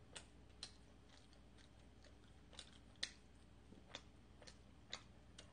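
Faint, irregular wet mouth clicks and smacks of someone chewing sticky glutinous rice cake (chapssaltteok) with the mouth closed, about eight in all.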